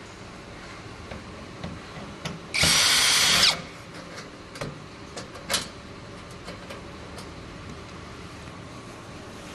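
Handheld power drill run in one short burst of about a second, a quarter of the way in, followed by several light clicks and knocks of parts being handled.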